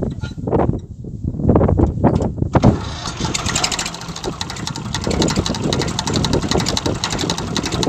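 Irregular thuds and knocks. About two and a half seconds in, a Massey Ferguson tractor's diesel engine sets in, running steadily with a fast, even clatter.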